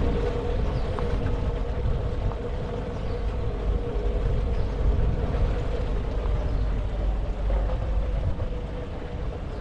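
Steady low rumble of wind and road noise on a GoPro microphone mounted on a moving bicycle, with a faint steady hum throughout.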